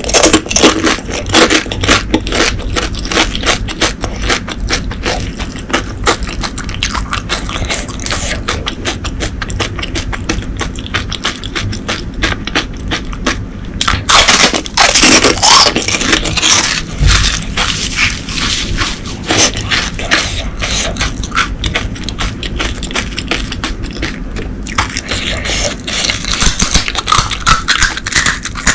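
Close-miked chewing of crisp pani puri shells, a steady wet crackling and crunching. Loud crunches come near the start and again about halfway through, as a whole puri is bitten into.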